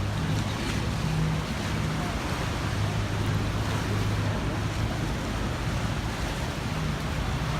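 Tour boat's engine running with a steady low hum under a constant rush of sea water and wind.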